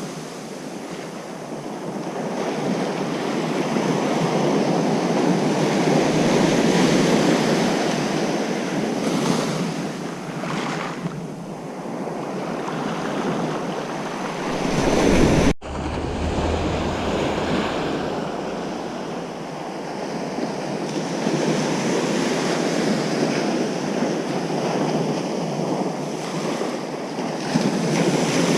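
Ocean surf breaking and washing on a beach, a continuous rush that swells and eases as each wave comes in. About halfway through it breaks off for an instant and resumes.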